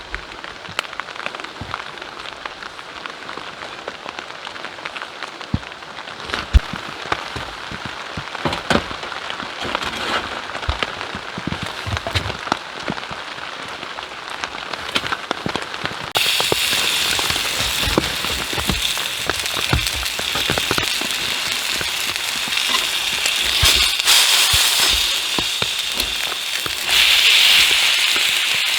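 Rain pattering, with many sharp crackles and ticks; about 16 seconds in, a louder, steady hiss takes over abruptly.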